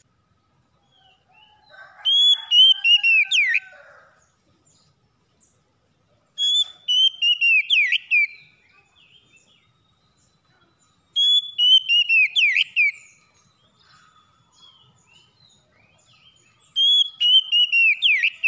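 Oriental magpie-robin (kacer) singing the same whistled phrase four times, about every four and a half seconds: a quick run of clear notes, each sliding down in pitch. Faint chirps sound between the phrases, and lower notes join the first phrase.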